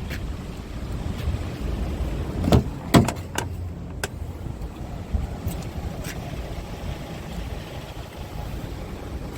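A Scania G450 truck's 13-litre inline-six diesel idling with a steady low rumble, and a few sharp knocks about two and a half to four seconds in, the loudest near three seconds.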